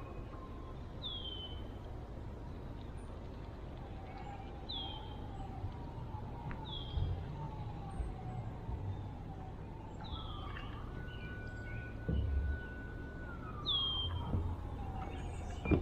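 A distant siren wailing in slow falling sweeps, holding a higher tone for a couple of seconds before gliding down near the end. Over it a bird repeats a short high downslurred call every second or two, with a few low thumps.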